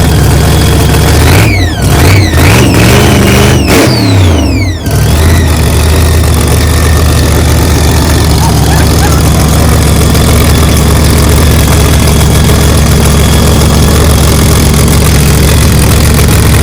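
Car engine idling loudly, blipped through several quick revs in a row about a second and a half in, then settling back to a steady idle.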